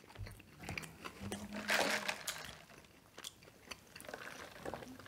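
A person chewing fast food close to the microphone, with soft wet clicks and smacks throughout and a louder bite or chew about two seconds in.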